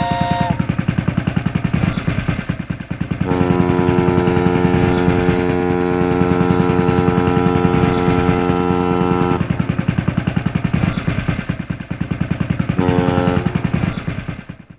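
Boat engine chugging in rapid, even pulses, with a long steady horn blast of about six seconds starting a few seconds in and a short horn blast near the end. The sound fades out at the very end.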